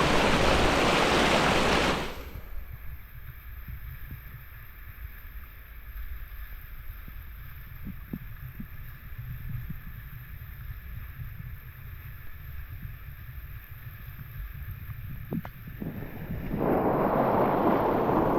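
Rushing river water and wind buffeting the microphone. About two seconds in it cuts off suddenly to a muffled low rumble with a few faint clicks, and the rushing noise comes back just as suddenly near the end.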